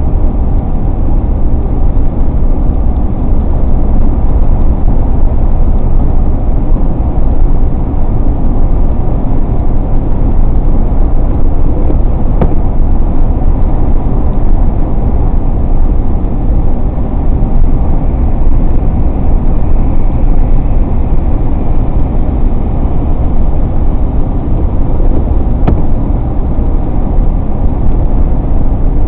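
Steady road and engine noise of a moving car heard from inside the cabin, mostly a low rumble that holds even throughout.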